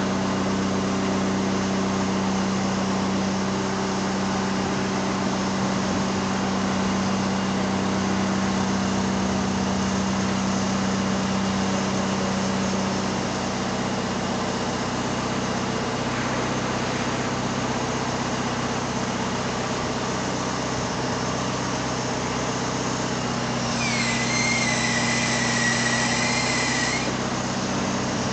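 Engine of a crane truck running steadily, its low hum easing a little about halfway through. Near the end a high wavering whine comes in for about three seconds, then starts again just before the end.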